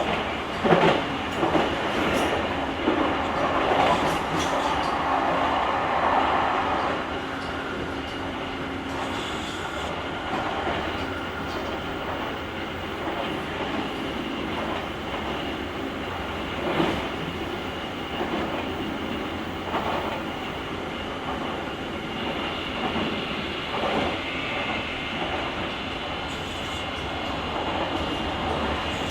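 Running sound of a JR Kyushu 883 series limited express train, heard inside the motor car's vestibule: a steady rumble and hum with occasional knocks from the wheels, louder for the first several seconds.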